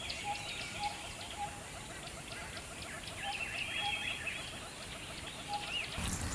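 Several birds chirping and calling over a fast, even, pulsing call. Near the end it switches suddenly to running water.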